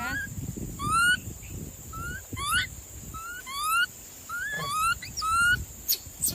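An animal giving a run of about ten short calls, each one rising in pitch, repeated every half second to a second.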